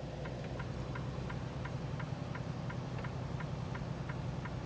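Semi-truck diesel engine idling, a steady low hum heard from inside the cab, with a regular light clicking about three times a second over it.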